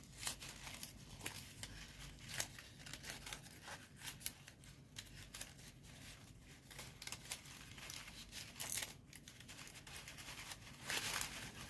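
Folded paper origami units rustling and crinkling as they are handled and slotted together, many small crackles and clicks, faint throughout.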